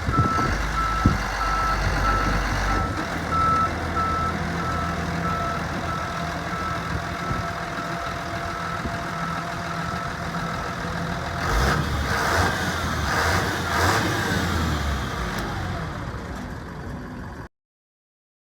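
The diesel engine of a 1998 GMC 6500 Topkick dump truck running while a high warning beeper sounds in steady, evenly spaced beeps. About 11 seconds in the beeping stops and the engine revs up for a few seconds, then the sound cuts off suddenly.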